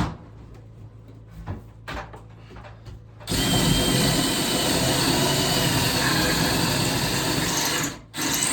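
A few light knocks and clicks, then about three seconds in a power tool starts and runs steadily, stopping for a moment near the end before running again.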